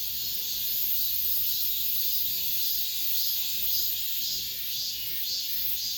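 Cicadas singing in chorus: a dense, high-pitched buzzing that swells and fades about twice a second.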